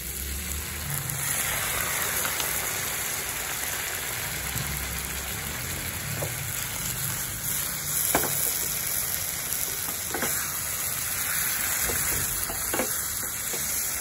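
Paneer, onions and capsicum sizzling steadily in a pan just after a little water is poured in. A spatula stirs the mix and knocks against the pan a few times.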